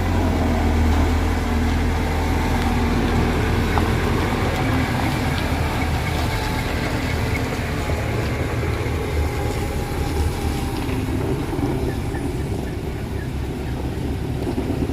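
Heavy truck engine labouring up a steep climb, a deep steady drone that eases a little in the second half.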